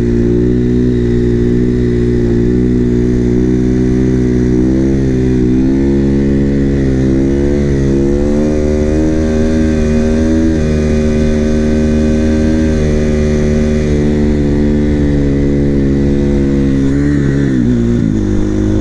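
KTM 450 supermoto's single-cylinder four-stroke engine held at a steady throttle for a long stretch, its note wavering only slightly, with wind rush over the helmet microphone. This fits the rider holding a long wheelie. Near the end the revs drop away.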